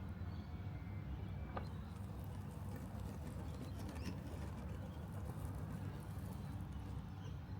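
Robotic lawn mower running with a steady low hum, with a couple of faint ticks along the way.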